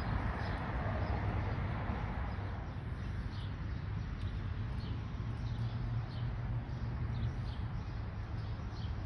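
Outdoor ambience on a wet day: a low steady rumble, with small birds chirping in short high notes over and over from about three seconds in.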